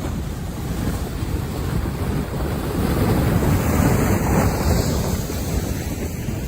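Rough sea and wind: the rush of breaking waves with wind buffeting the microphone, swelling louder about halfway through.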